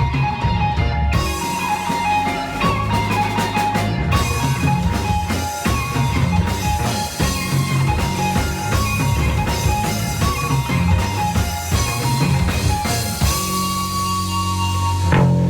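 Rock band playing live: an instrumental passage of guitar and drum kit, with cymbals coming in about a second in and a long held guitar note near the end.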